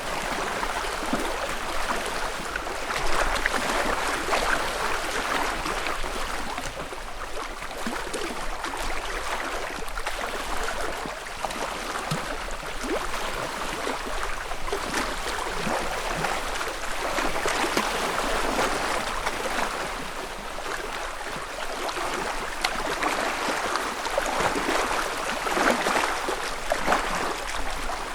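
Small ripples lapping and splashing against the lakeshore of a calm freshwater lake, a continuous gentle wash of little splashes that swells and eases every few seconds.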